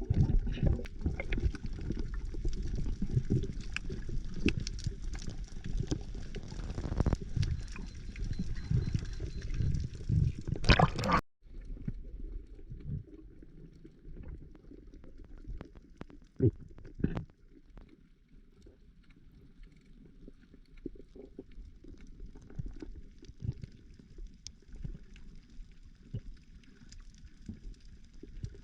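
Water sloshing and gurgling, with scattered small knocks. About eleven seconds in it cuts abruptly to a quieter stretch of the same.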